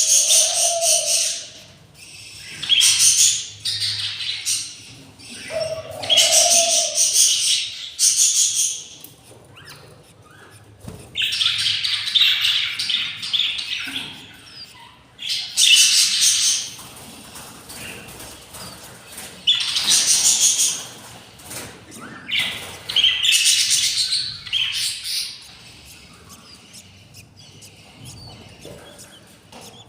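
Budgies calling in harsh chirping and squawking bursts of a second or two, repeating every few seconds.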